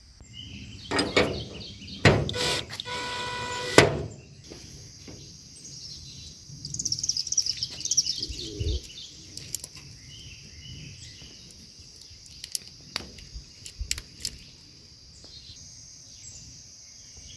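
Outdoor countryside ambience: insects drone steadily and birds chirp, with a run of descending chirps about seven seconds in. In the first few seconds there is handling clatter and a short steady whine, and scattered clicks of work on the gazebo frame come later.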